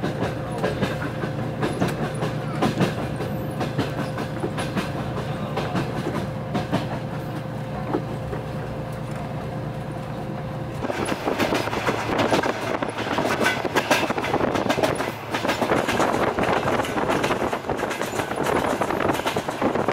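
Passenger train carriage running on the rails, heard from inside: a steady low hum with wheels clicking over the track. About eleven seconds in the hum drops away and the sound turns to a louder, denser rattling clatter.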